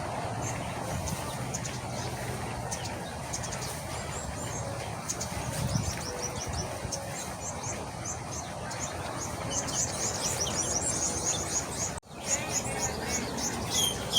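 Many small birds chirping in an aviary: rapid short, high calls that grow busier toward the end, over a low steady background hum. The sound drops out briefly about twelve seconds in.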